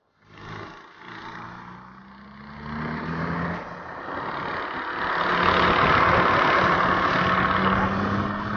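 A vehicle engine speeding up, its pitch rising over the first few seconds, then building into a loud, steady rush of engine and road noise heard from inside a moving car, recorded on a flip phone.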